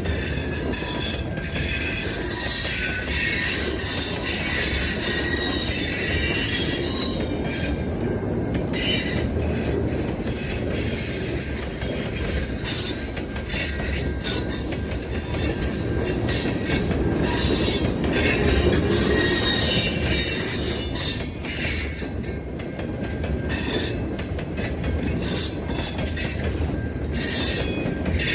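CN train rolling past with a steady rumble, its wheels squealing in several high tones that come and go, and a quick run of wheel clicks over the rail joints.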